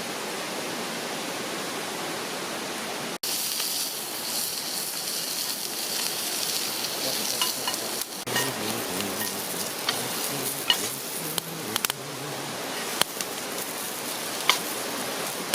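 Food sizzling over a campfire: a steady hiss with scattered sharp crackles and pops.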